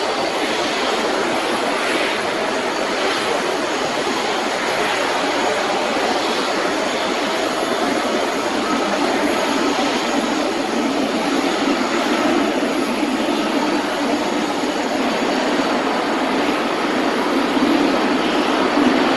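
Boeing 787-8 airliner's jet engines running, a steady loud rush of noise with faint steady tones in it, growing slightly louder near the end.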